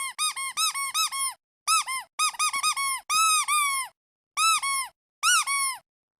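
Squeaky duck toy being squeezed in quick succession: a run of short squeaks, each rising and falling in pitch, coming in several bunches with brief gaps, and stopping near the end.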